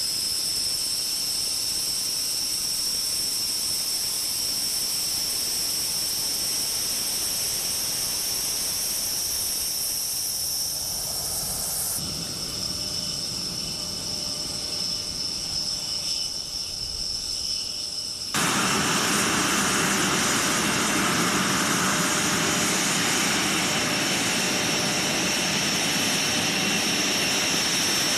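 Tornado fighter jet engines running with a steady high-pitched turbine whine over a rushing roar. The sound changes abruptly twice, and the last stretch is louder and fuller.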